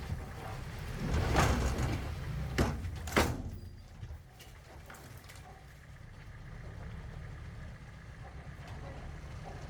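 Low, steady diesel engine rumble from earthmoving machinery. In the first three seconds there are noisy swells and two sharp knocks, about two and a half and three seconds in, which are the loudest sounds.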